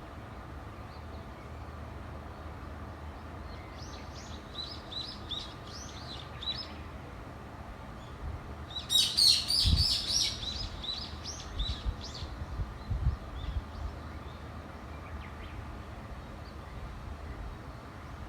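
A bird singing in two bouts of quick, high chirping notes, one about four seconds in and a louder one about nine seconds in, over a steady low background rumble.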